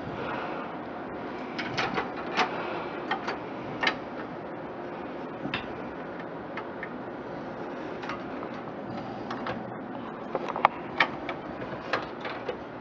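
Scattered light clicks and knocks of computer parts being handled and fitted into a desktop case, over a steady background hiss, with a few sharper knocks near the end.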